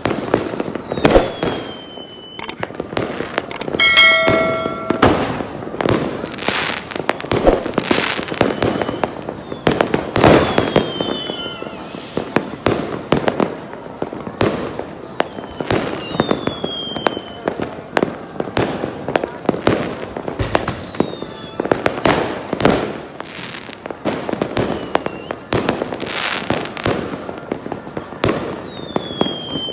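Fireworks going off one after another: many sharp bangs, with several short whistles falling in pitch between them.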